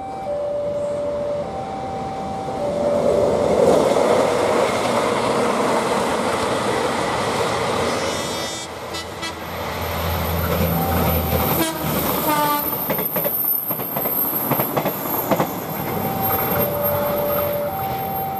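A railway level-crossing alarm sounds two alternating tones. Then a train passes close, with a low engine rumble, a brief horn near the middle, and wheels clattering over the rail joints with a high squeal. The two-tone crossing alarm returns near the end.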